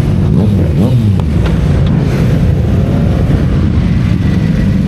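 Motorcycle engines running close by, a steady low rumble, with one engine briefly revving up and back down about half a second in.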